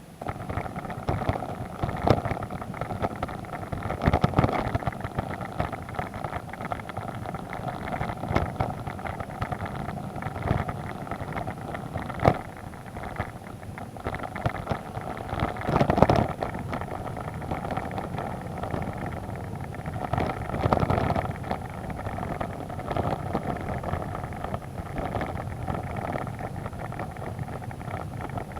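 Vehicle engine running steadily while driving a rough, slippery mud road, with frequent knocks and jolts from the ride; the biggest bangs come about 2, 4, 12, 16 and 21 seconds in.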